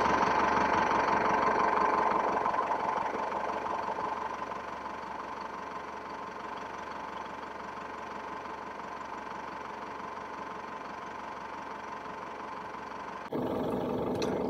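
A vehicle engine idles with a steady hum, heard from inside the car. It gets quieter over the first few seconds, then holds steady. Near the end the sound cuts suddenly to a louder hum.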